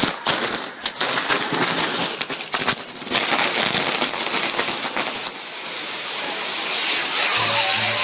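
Castillo fireworks crackling and hissing: dense rapid popping over a sputtering hiss for about five seconds, giving way to a steady, growing hiss.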